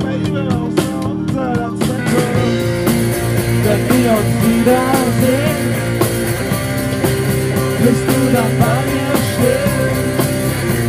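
A rock band playing live, with a wavering melody line over a steady band backing; the sound grows fuller about two seconds in.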